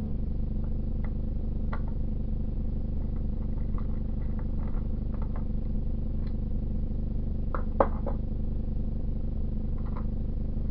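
Scattered light clicks and taps of hand tools on the water heater's casing and screws, with a sharper clink about three-quarters of the way through, over a steady low hum.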